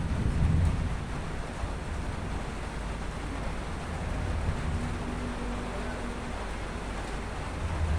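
Thunderstorm ambience: a steady rushing noise with low rumbling swells near the start and again near the end.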